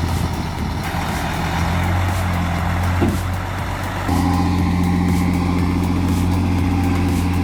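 Heavy truck engine running with a steady low drone, getting louder about four seconds in.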